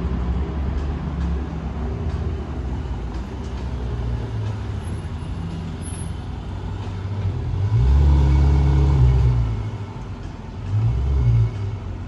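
City street traffic: vehicle engines running low, with one vehicle passing louder about eight seconds in and another briefly near the end.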